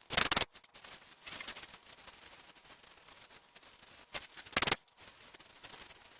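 Short hissing bursts of an aerosol can of carb cleaner being sprayed onto an oil-caked engine: a loud half-second burst at the start, another a little past four seconds, and fainter spritzes between.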